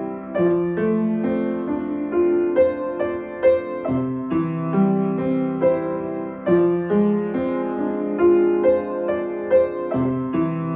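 Gentle piano music: a slow melody of held notes over soft chords.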